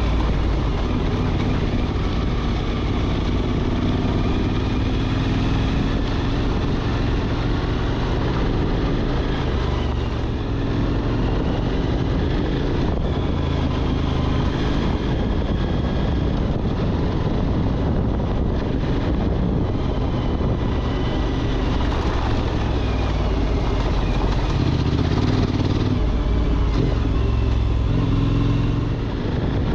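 Motorcycle being ridden, its engine running steadily with small rises and falls in pitch as the throttle changes.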